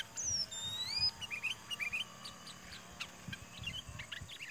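Sooty-headed bulbuls calling: two clear whistled glides in the first second, one falling and one rising, then bursts of short chirps.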